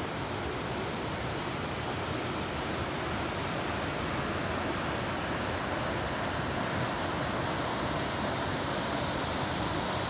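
Waterfall: a steady, even rush of falling water that grows slightly louder.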